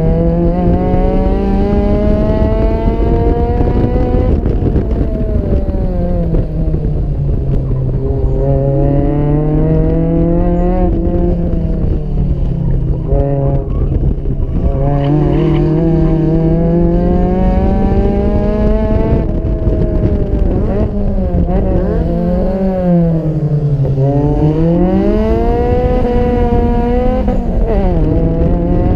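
Four-cylinder car engine under hard running, its pitch climbing steadily as it revs up and then dropping back several times as it shifts or lifts off, with one deep dip and climb near the end.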